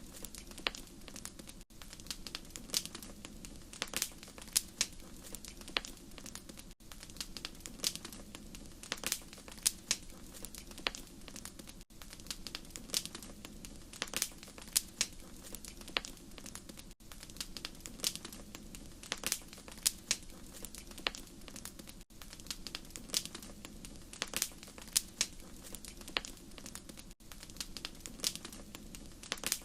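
Wood fire crackling and popping, with irregular sharp snaps over a steady low rumble. The track drops out briefly about every five seconds, as if a short recording is looped.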